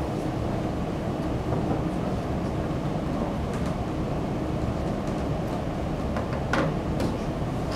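Steady low rumbling background noise, with two faint short clicks near the end.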